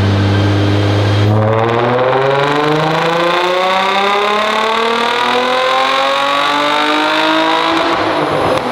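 2003 Nissan 350Z's 3.5-litre V6 making a full-throttle dyno pull in third gear: it holds a steady low note, then about a second in the revs start climbing steadily for about six seconds, and near the end the throttle lifts and the revs fall. Really loud.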